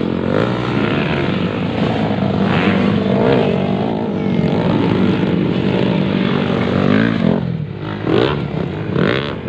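Several motocross bikes racing at once, their engines revving up and down in an overlapping drone. Near the end one engine revs up sharply twice.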